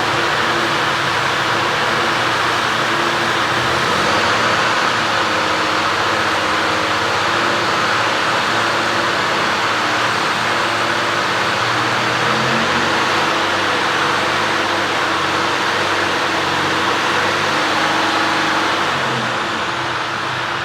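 Mercedes-Benz Antos 1824 lorry's six-cylinder diesel engine running steadily after start-up.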